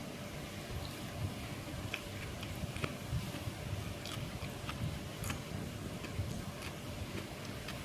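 Someone eating gado-gado: chewing, with irregular small clicks, over a steady low background rumble.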